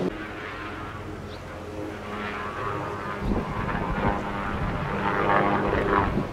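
Airplane engines running with a steady whine, growing louder over several seconds as the aircraft draws nearer.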